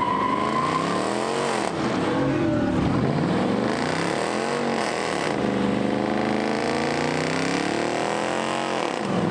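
Car engine revving hard, its pitch swinging up and down about three times, then held at high revs for a few seconds before dropping near the end.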